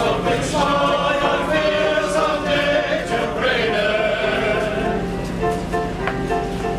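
Male chorus singing in harmony.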